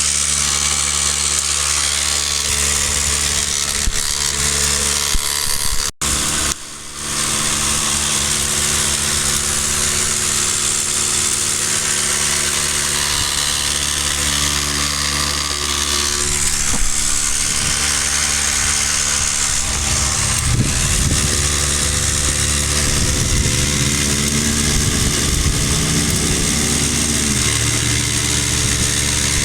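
Backcountry F2 Tornado electric non-air drywasher running: a steady motor hum with the vibrating riffle tray rattling and a hiss of dry material sliding through it. The sound drops out briefly about six seconds in.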